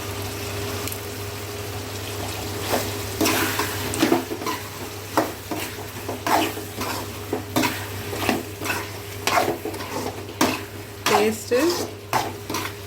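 A spoon stirring chicken masala in a frying pan, scraping against the pan many times in quick, irregular strokes from about three seconds in, over a low sizzle of frying.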